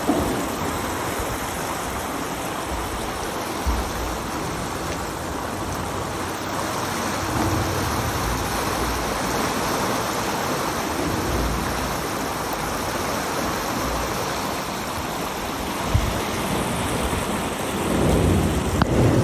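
A steady rushing noise like heavy rain, with a few brief low rumbles.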